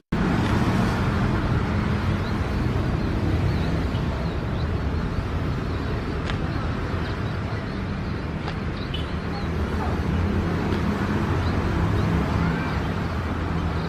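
Steady low engine rumble in outdoor background noise, with a few faint high chirps.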